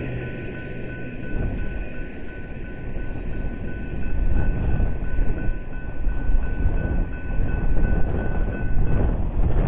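Double-stack intermodal freight train rolling away, its wheels rumbling and clattering on the rails. A faint steady high-pitched tone rides over the rumble and stops near the end.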